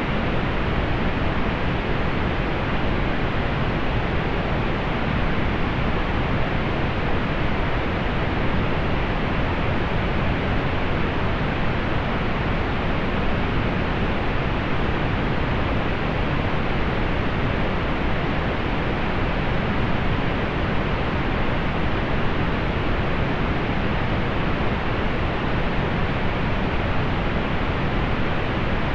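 Steady synthetic pink noise: an even, unchanging hiss with its energy weighted toward the low end and rolled off above the mid-highs.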